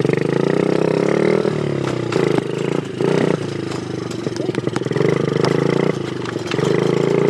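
2003 Honda four-stroke dirt bike engine running, its revs climbing for about a second and a half, then falling back. It surges again in several short throttle bursts between steadier, quieter running.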